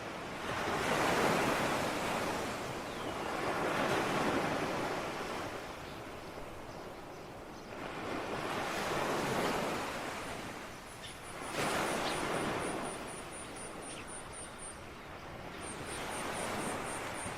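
Ocean waves breaking and washing in, in slow swells of surf that rise and fall about every three to four seconds. A faint rapid high chirping runs through the second half.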